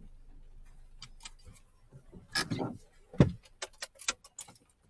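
Handling noises: a run of sharp clicks and short rustles, with a heavier thump a little past three seconds in.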